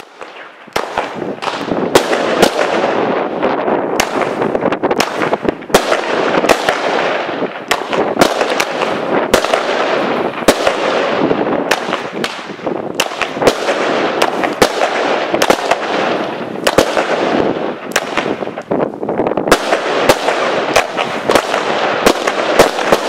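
A chain of single-shot fireworks fired in quick succession from the ground. Sharp bangs come roughly every half second over a continuous hissing crackle, starting about a second in.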